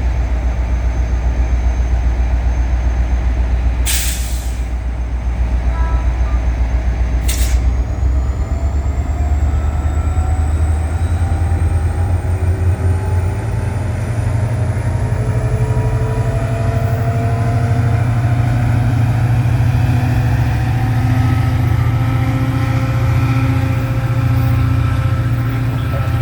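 Caltrain diesel locomotive running at a station, its engine throbbing low, with two short blasts of air hiss about four and seven seconds in. From about ten seconds in the engine revs up and several whining tones rise steadily, as the train moves off under power.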